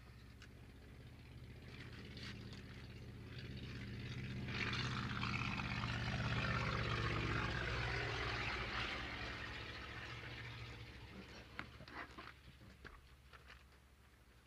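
A vintage propeller airplane taking off close by. Its engine and propeller sound swells to a peak about five to eight seconds in, then fades as it climbs away.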